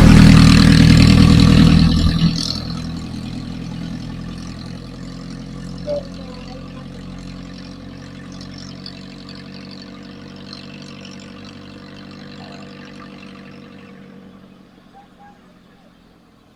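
A motor vehicle's engine passes close by loudly, then fades steadily into the distance over about a dozen seconds. There is a short knock about six seconds in.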